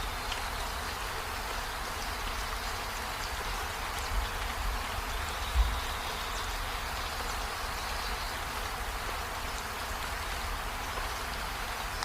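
Steady rain falling on leaves and a window, a continuous hiss with faint scattered drip ticks. Two brief low thumps come about four and five and a half seconds in.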